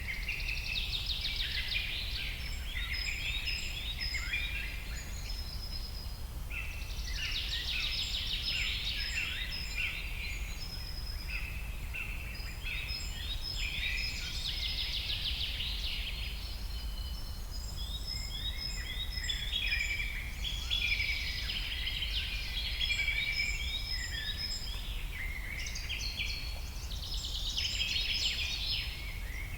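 Many birds chirping and trilling together in a dense, continuous chorus, over a steady low rumble.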